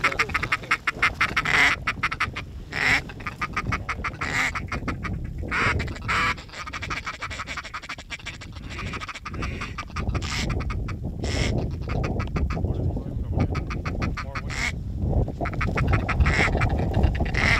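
Ducks quacking: a fast run of quacks at the start, then single quacks every second or two, over a low wind rumble that grows louder in the second half.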